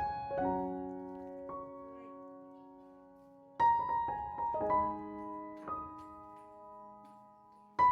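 Soft background piano music: slow notes and chords that ring and fade, with a new chord struck about halfway through and another near the end.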